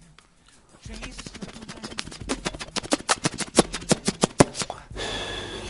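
A quick, irregular run of sharp clicks or taps, about five or six a second and getting louder, then a short hiss near the end.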